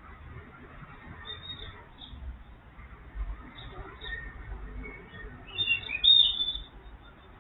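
Small birds chirping in short scattered calls, with a louder cluster of calls about six seconds in, over a faint low rumble.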